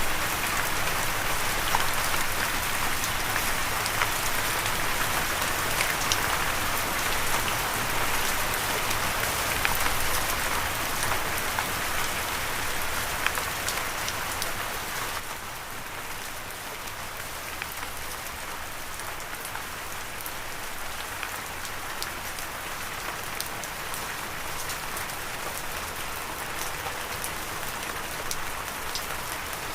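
Steady rain falling: a dense hiss dotted with sharp ticks of individual drops. It becomes quieter about halfway through and carries on at the lower level.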